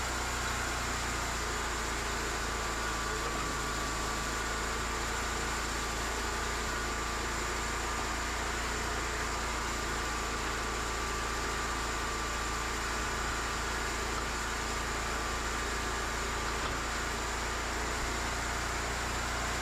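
Cooks 3238 hydraulic sawmill running steadily, a constant hum with a thin whine and no change in load.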